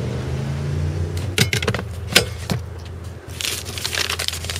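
A few sharp clicks and knocks, then a rustling scrape about three and a half seconds in, as the pickup's rear seat and its under-seat storage are handled, over a steady low hum.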